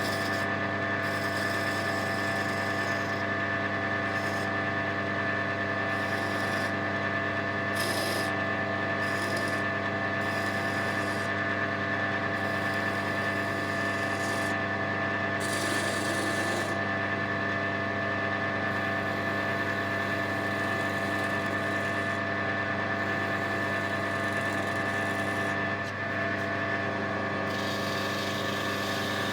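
Wood lathe running with a steady motor hum while a turning tool cuts an oak finial, the scraping of the cut coming and going every second or two.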